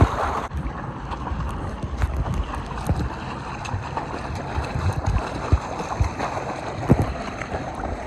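Wind buffeting the microphone over water sloshing and splashing, with scattered small splashes and knocks.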